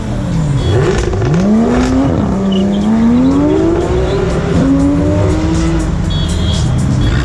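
Sports car engines revving and accelerating. The engine pitch dips about a second in, then climbs in long rising sweeps through the middle, with another rise a little past halfway.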